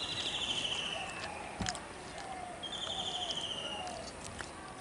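A bird calling twice: a high, pulsed trill that falls slightly in pitch, each lasting about a second and a half, the second starting about two and a half seconds in. A short knock comes between them.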